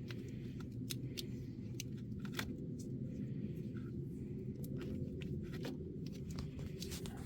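Electrical tape being pulled off the roll and wrapped around a cable connection: scattered small clicks and crackles over a steady low rumble.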